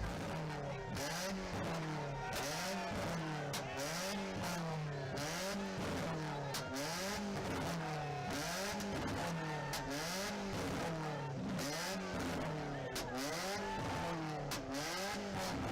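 A car engine revved over and over, its pitch rising and falling about once a second.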